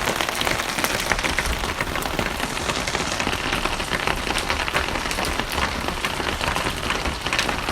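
Steady rain falling on a surface, a dense, even hiss full of small drop ticks.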